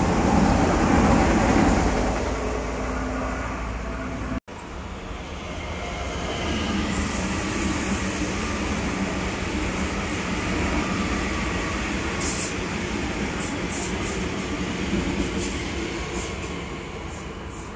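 Red DB Regio electric passenger trains rolling past close by: a steady rumble of wheels on rail, loudest at the start. It breaks off abruptly about four seconds in, then resumes as a continuing pass-by, with a few short high-pitched wheel squeaks in the second half.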